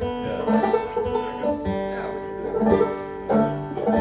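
Banjo being picked between songs, a loose run of plucked notes ringing over one another.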